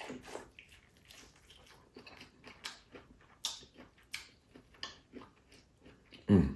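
Close-up eating sounds: chewing and mouth smacking, with scattered short crunches and clicks. There is a short voice sound right at the end.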